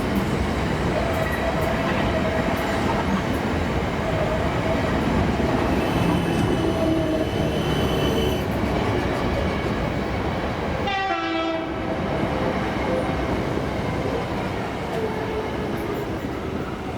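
Train running past on the rails, a steady loud rumble with some whine, and a short horn blast about eleven seconds in.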